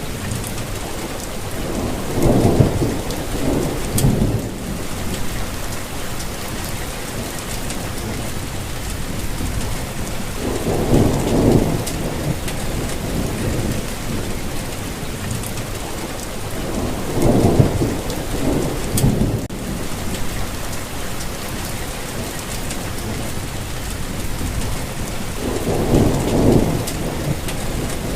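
Steady rain falling, with distant thunder rolling in four low rumbles, each a couple of seconds long, spaced about eight seconds apart.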